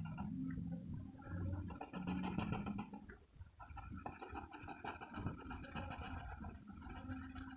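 Pencil lead scratching on paper in quick, repeated back-and-forth shading strokes.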